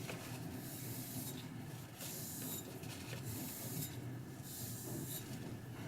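Steel knife blade rubbed in a series of short, light strokes, about six or seven hissing scrapes a little under a second apart.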